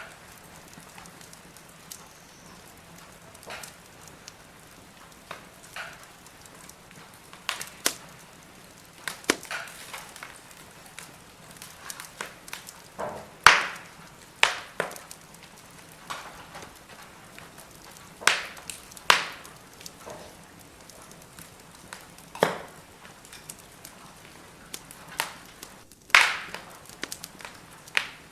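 Firewood burning in a brazier, crackling with irregular sharp pops and snaps over a faint steady hiss; the loudest pops come about halfway through and near the end.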